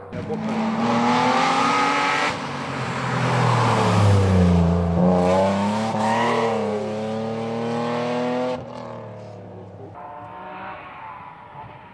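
Rally car engine revving hard, its pitch climbing and falling through gear changes and braking. It cuts off abruptly about eight and a half seconds in, and a fainter engine follows near the end.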